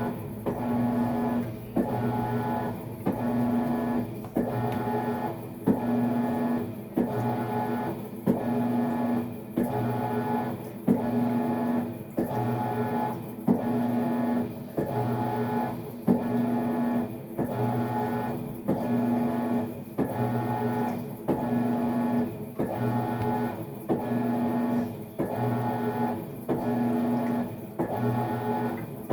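Maytag MVWX655DW1 top-load washer agitating during a tub clean cycle. The motor hums in strokes about every one to two seconds, with short pauses between them as the wash motion reverses direction.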